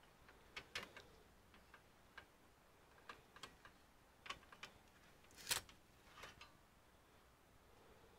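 Irregular light clicks and taps of small computer parts and tools being handled during disassembly of an all-in-one PC, with one sharper tap a little past halfway.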